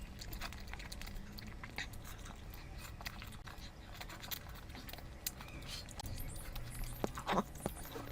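Close-miked chewing and lip-smacking of someone eating curry: a run of small wet clicks and crackles, with a louder mouth sound about seven seconds in.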